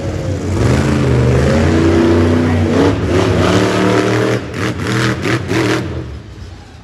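Monster truck engine revving hard, its pitch rising and falling. It ends in a few quick throttle blips before dropping away.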